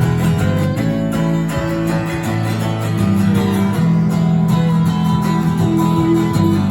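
Instrumental music led by strummed acoustic guitar, with sustained chords and a bass line.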